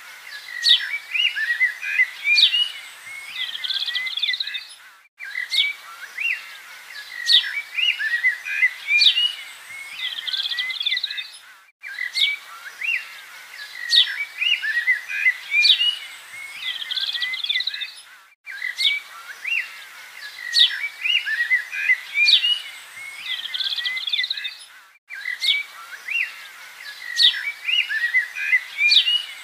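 Budgerigars chirping and chattering in quick sharp notes. It is a short recording looped over and over, with a brief break about every six and a half seconds.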